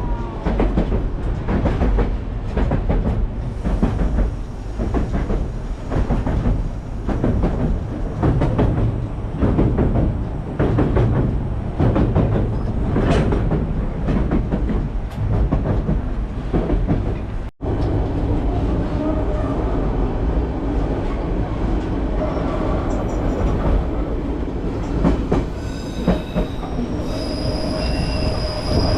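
Passenger train rolling on rails, its wheels clacking over the rail joints in a quick uneven rhythm. After a brief break about two-thirds of the way through, the sound turns to a steadier rolling noise, and high-pitched wheel squeal comes in near the end.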